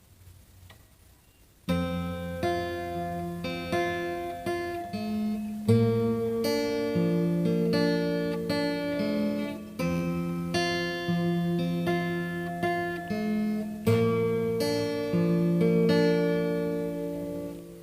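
Acoustic guitar playing a slow chord-based intro. It comes in about two seconds in and eases off just before the end.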